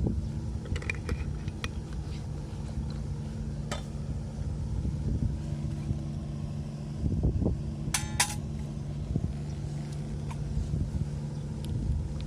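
Light metallic clinks of camp cookware and utensils, with a sharper ringing double clink about eight seconds in, over a steady low engine-like hum.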